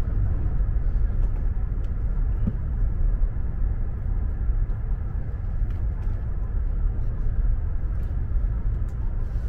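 Steady low rumble of a moving train heard from inside the carriage, its running noise even throughout, with a few faint ticks.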